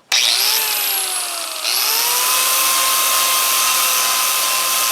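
Angle grinder with a flap disc starting up and sanding the bottom of a cast iron pan. Its whine sags in pitch for about a second and a half, then climbs back and runs steady.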